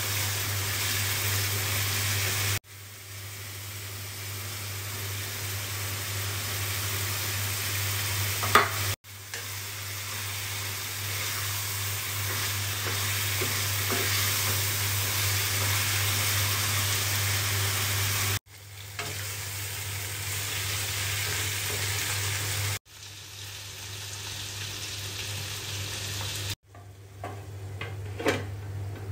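Chicken and bitter gourd (karela) curry sizzling in a frying pan while a spoon stirs it, a steady hiss that cuts off and restarts several times, over a steady low hum. Near the end a steel lid is set on the pan with a few sharp clinks.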